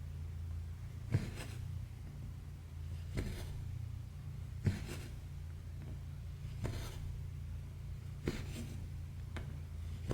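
Needle and thread being drawn through cross-stitch fabric: a tick as the needle goes through, then a short scratchy pull of thread, about every one and a half to two seconds, six times. A steady low hum runs underneath.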